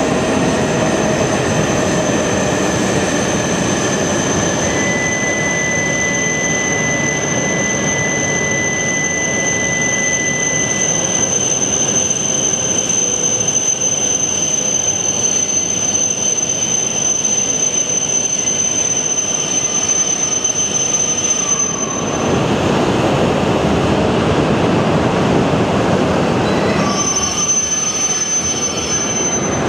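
Shinkansen bullet train moving slowly along the platform, its running noise steady with thin high-pitched wheel squeal on top. The sound changes abruptly about two-thirds of the way through, and the squeal returns near the end.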